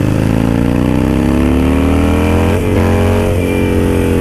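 Harley-Davidson Sportster V-twin running through an aftermarket Danmoto exhaust on the move, the revs rising steadily, a brief break about two and a half seconds in, then the revs falling off near the end.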